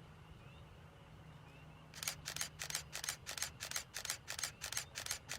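A camera shutter firing in a rapid burst, about three clicks a second, starting about two seconds in over a faint low hum.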